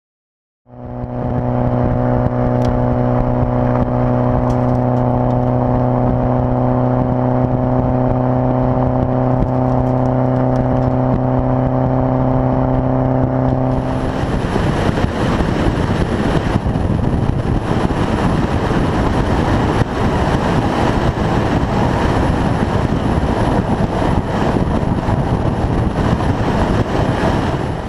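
Modified Scion FR-S's flat-four boxer engine through its aftermarket catback exhaust: a loud steady drone held at one pitch for about thirteen seconds, then a rougher, noisier sound to the end.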